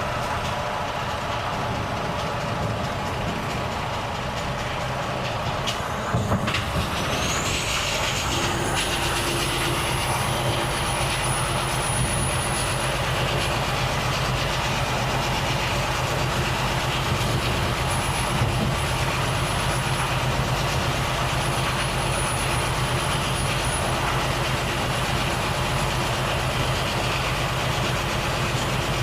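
Volvo FH truck's diesel engine running, heard in the cab. About six seconds in come a couple of clicks and a short hiss, then the engine pulls harder, with a high whistle that rises and then holds steady over the low engine hum.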